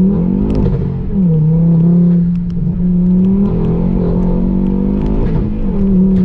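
Tuned 500 bhp Ford Focus RS with a fully forged engine, driven hard: the engine note climbs, drops sharply at a gear change about a second in, then holds a fairly steady pitch with small rises and dips.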